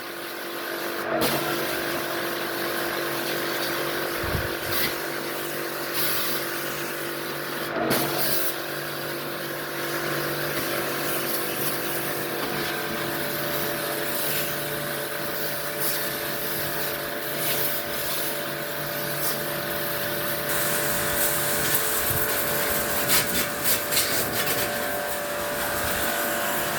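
A small electric machine running steadily with a constant hum, with a few light knocks.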